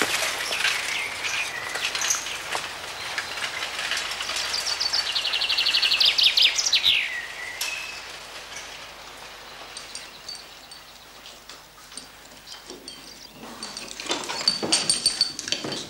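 Woodland birdsong: a fast trill of high repeated notes about five seconds in that drops in pitch at its end, over the rustle of bicycle tyres rolling on a leaf-strewn forest path.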